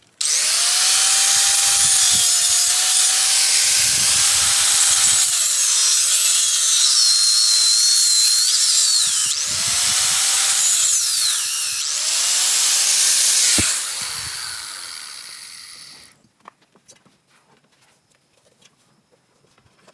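Handheld electric power tool running under load, its motor whine dipping as it works: switched off and back on twice near the middle, then winding down and stopping about sixteen seconds in.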